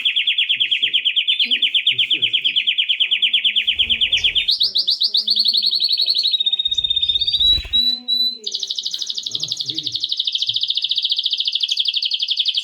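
A canary singing long, very rapid rolling trills. The trill jumps to a higher pitch about four seconds in, breaks briefly with a dull low thump near the middle, and resumes even higher for the rest.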